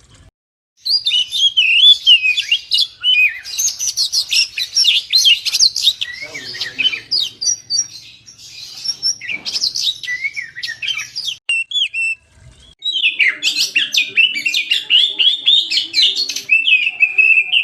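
Oriental magpie-robin (kacer) singing loudly: a fast, varied run of whistles and chattering notes, broken twice by short silences.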